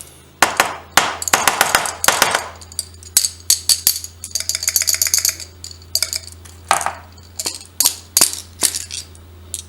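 Glass marbles clinking and rattling inside a glass test tube, many sharp, irregular clinks, as the tube is worked to free a jammed marble. The jam comes from one marble that is not perfectly round.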